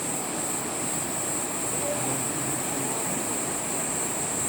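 Steady rushing of river water through the gorge, with a constant high-pitched hiss above it.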